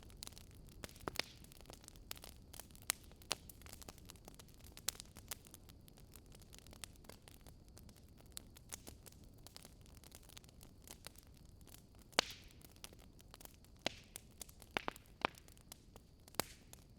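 Wood fire crackling: irregular small pops and snaps over a soft steady hiss, with a sharper pop about twelve seconds in.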